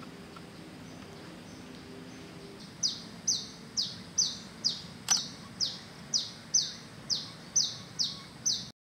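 A bird calling over and over: short high notes, each falling sharply in pitch, about twice a second, starting about three seconds in, over a faint steady background hiss. A single sharp click sounds about halfway, and everything cuts off just before the end.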